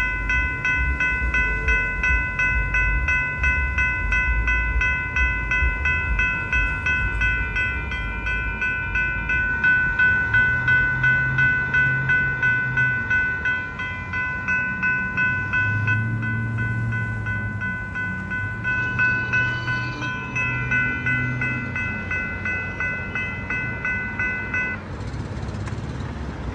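Railroad crossing warning bells ringing steadily at about two strokes a second over a low rumble, then falling silent about 25 seconds in as the crossing signal times out.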